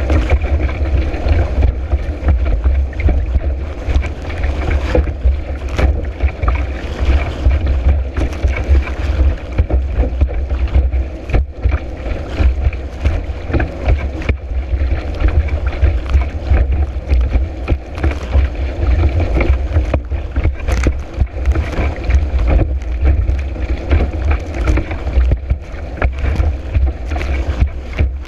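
Kiteboard riding fast over choppy water in high wind, heard from a camera mounted on the board: a constant heavy rumble with rushing water and frequent sharp knocks as the board hits the chop.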